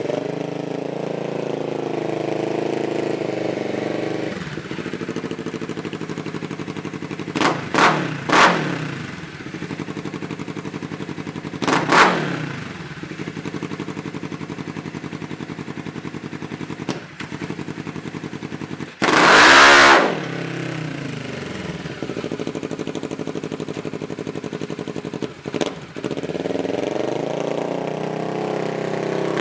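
2012 Polaris RZR XP 900's twin-cylinder engine through a Looney Tuned dual exhaust, running with its pitch rising and falling and several quick throttle blips. About two-thirds of the way through comes one much louder, harsher blast lasting about a second.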